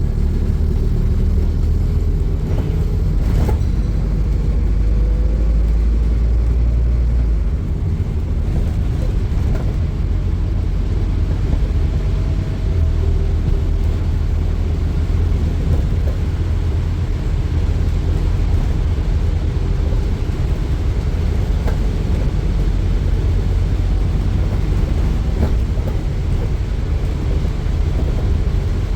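Scania N230UD double-decker bus running, its 9-litre five-cylinder diesel giving a steady low rumble, with faint rising whines as it pulls. A single sharp knock about three seconds in.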